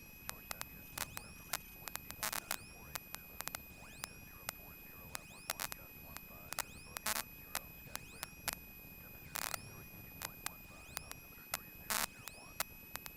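Electrical noise on the cockpit radio/intercom audio: a steady high whine with irregular sharp clicks and crackles over a low hiss.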